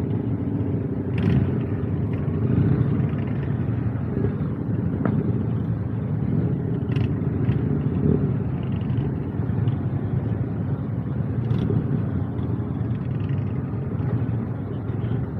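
A vehicle driving at highway speed: steady low engine and road rumble, with a few faint ticks now and then.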